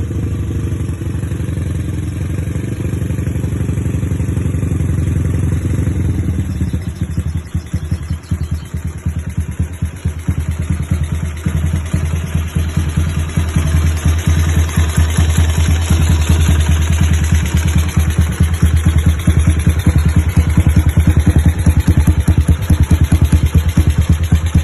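An old Honda Tiger's single-cylinder four-stroke engine running through an ORP7 aftermarket racing exhaust. It runs fairly steadily at first; about seven seconds in, the exhaust pulses turn choppy and distinct, then grow louder and are loudest near the end.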